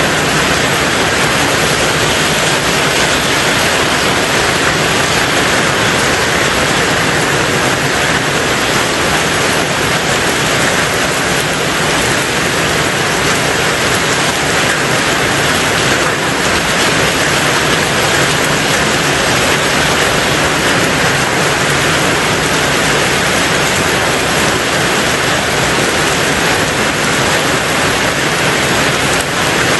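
Steady, heavy rain drumming on a tin roof, an even rushing hiss with no separate drops standing out.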